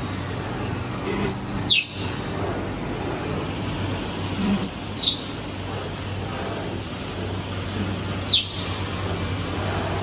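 A bird calls three times, about every three and a half seconds: each call is a short high note followed by a quick falling whistle. Under it runs the steady hum of a 5-axis CNC milling machine at work.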